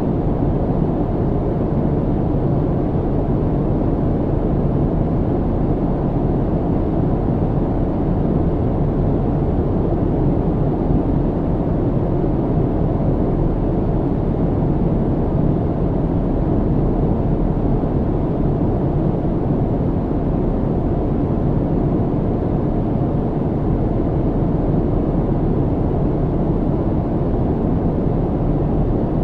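Steady low rumble of an airliner cabin in cruise flight: an even, unchanging drone of engine and airflow noise, strongest in the low pitches.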